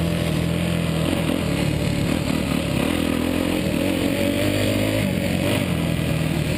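Suzuki motocross bike engine running hard on the track, its pitch rising and falling as the throttle opens and closes, over a steady hiss of rushing air.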